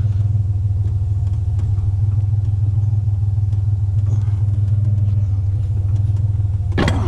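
Pickup truck engine idling steadily with a low, even rumble. Near the end comes one short, sharp sound.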